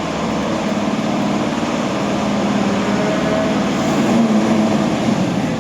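Steady running of an engine or motor, with a low hum that holds throughout.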